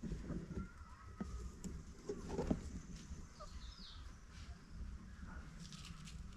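Chickens clucking now and then, with a few short higher chirps mixed in.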